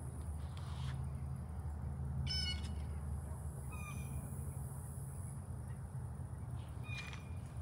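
A bird calling outdoors: one short call with a harsh, layered tone about two seconds in, then briefer calls around four and seven seconds, over a steady low rumble.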